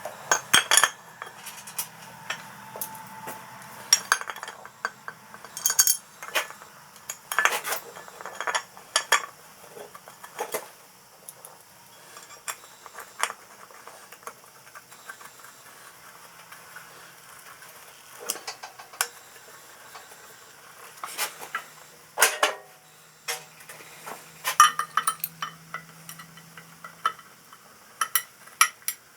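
Irregular metallic clinks and clatters of metal parts and tools being handled and set down, in short clusters with quiet gaps between.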